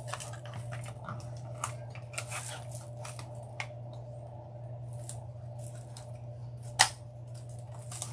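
Dry grapevine wreath crackling and rustling as a weaving needle threaded with bind wire is worked through the vines, in scattered small clicks with one sharp click near the end. A steady low hum runs underneath.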